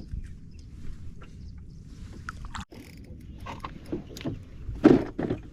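Knocks and clicks of handling in a small fishing boat over a steady low rumble, with one louder thump near the end.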